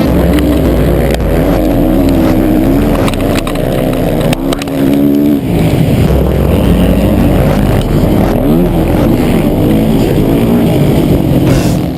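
Motocross bike engine heard from an onboard camera, loud, its revs repeatedly rising and falling as the rider opens and closes the throttle.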